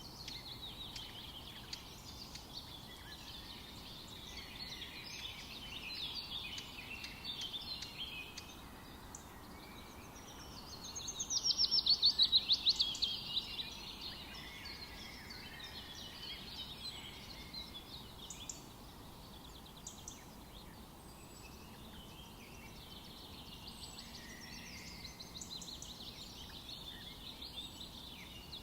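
Several birds singing together in a forest, over a faint steady background hiss. About eleven seconds in, one bird sings a loud, fast trill of rapidly repeated notes lasting a couple of seconds.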